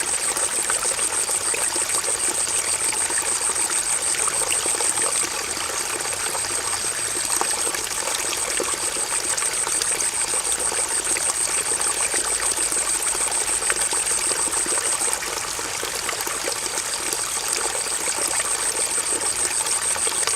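Stream water running and splashing steadily. Over it, a high, rapidly pulsing buzz holds on and off, breaking off briefly about 5 seconds in and again about 15 seconds in.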